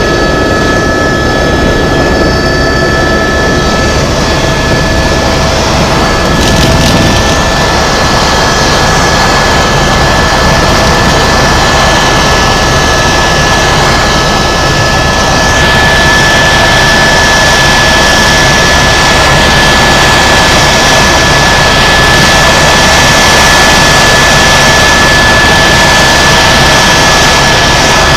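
Tour helicopter in flight heard from on board: a loud, steady rotor and turbine noise with a constant high whine running through it.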